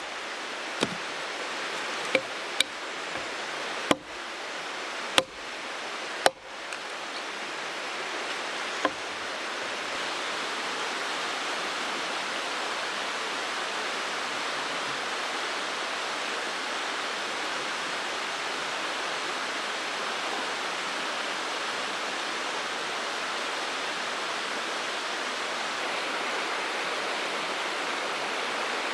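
Mountain stream rushing steadily. About seven sharp clicks or knocks come in the first nine seconds, then only the water.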